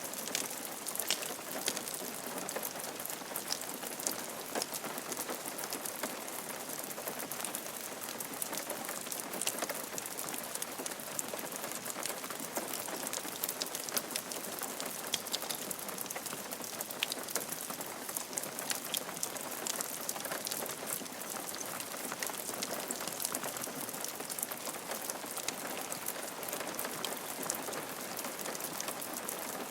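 Steady rain falling on a roof, a constant hiss dotted with many small sharp drop impacts.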